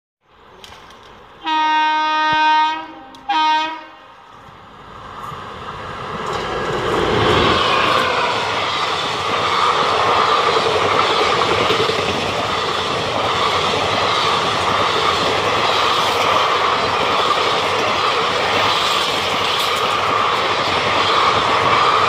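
Indian Railways train horn sounds twice, a long blast then a short one, then the train comes up and passes at speed, its blue passenger coaches running over the rails in a steady loud rush and clatter.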